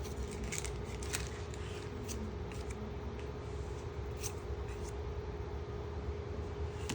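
Pokémon trading cards being handled and flipped one by one, with short scattered clicks and slides of card on card over a steady low hum.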